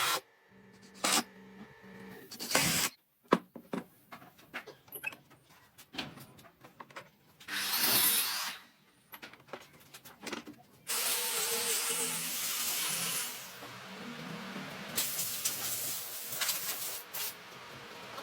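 Woodworking sounds on timber: scattered sharp taps and knocks, then long hissing strokes.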